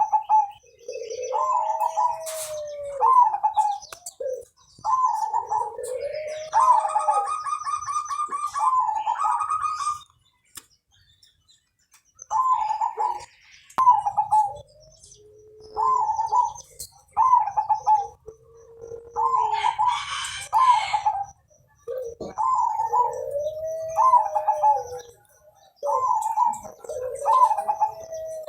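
Zebra dove (perkutut) singing its long cooing song: repeated phrases of quick staccato notes, each ending in a longer arched coo, with a short pause near the middle. A higher chirping runs over the song about a third of the way in.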